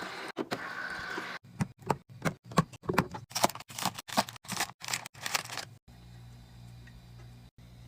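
Food containers and packages being handled and set down while a fridge is restocked: a run of quick clacks and taps, about two or three a second, then a faint steady low hum for the last two seconds.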